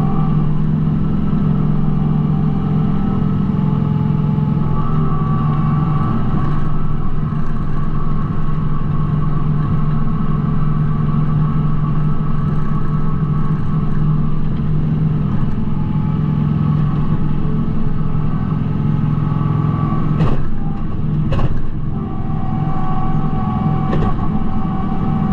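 Kubota B2650 compact tractor's three-cylinder diesel engine running steadily, with a few brief sharp knocks near the end.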